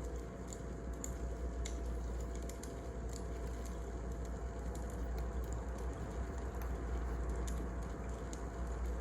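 Wood fire crackling: scattered, irregular sharp pops and snaps over a steady low rumble of the burning logs.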